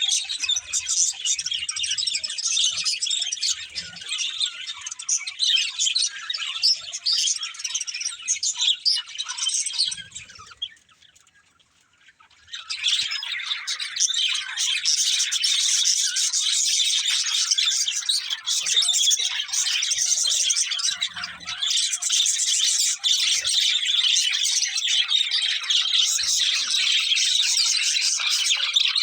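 Budgerigars chirping and chattering continuously, with a break of about two seconds just before the middle.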